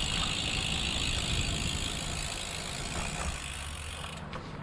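Lynskey R300 titanium road bike coasting: the rear freehub ratchet buzzes steadily and stops about four seconds in, over a low rumble of wind on the microphone and tyres on the road.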